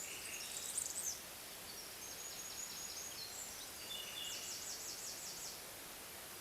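Small songbirds singing and calling in a forest: high, thin chirps in the first second, then a fast trill of about eight rapid notes a little past four seconds in, over a steady soft hiss.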